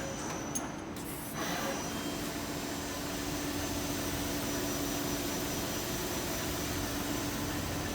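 Daewoo Puma 230 LB CNC lathe running: a steady mechanical whirr with a held hum, stepping up in level about a second and a half in and then staying even.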